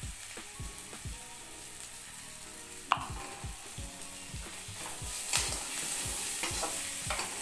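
Flat metal spatula stirring and scraping onions and green chillies frying in oil in a kadai, over a steady sizzle. There is one sharp clink of the spatula against the pan about three seconds in, and the sizzle grows louder a little past halfway.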